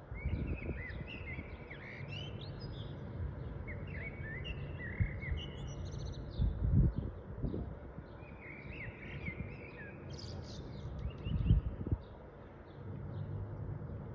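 Small birds chirping and twittering, many short calls overlapping. Under them runs a steady low rumble, with a few louder low thumps.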